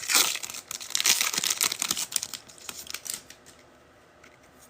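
Foil trading-card pack wrapper crinkling and tearing as it is ripped open. It is loudest in the first two seconds, then a few light clicks fade to quiet.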